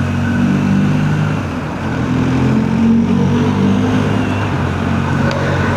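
BMW R1250GS boxer-twin engine running steadily while riding, with wind and road noise.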